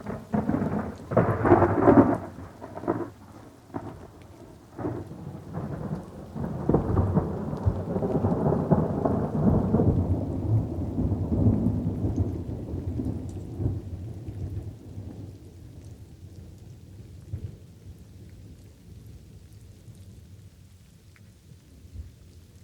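A thunderclap over light rain: sharp cracks right at the start, then a long rolling rumble that swells again several seconds in and dies away, leaving the faint steady hiss of the rain.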